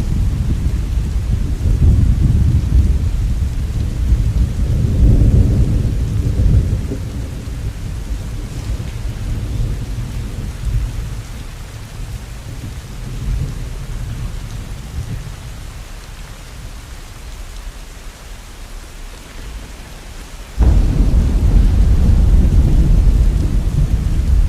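Thunderstorm: low rolling thunder over steady rain. The rumble slowly dies away over about fifteen seconds, then a loud new rumble starts suddenly near the end.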